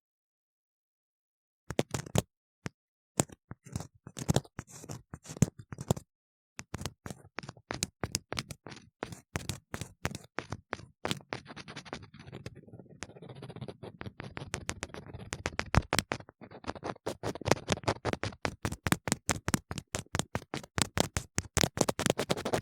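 An ear-cleaning tool scratching and scraping inside a silicone ear model in rapid, dense strokes. It starts after about two seconds of silence and pauses briefly about six seconds in.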